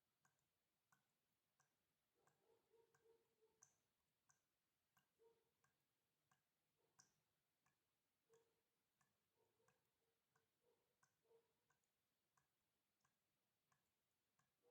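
Very faint water dripping in a steady rhythm, a drop about every two-thirds of a second, with extra irregular drops plinking between them.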